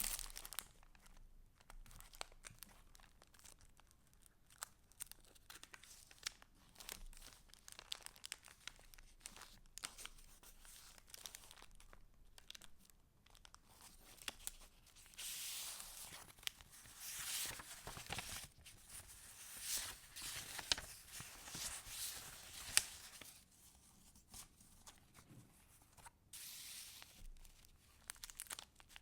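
Paper pages of a handmade junk journal rustling and crinkling as they are handled and turned, with many small ticks and taps. The rustling grows louder about halfway through.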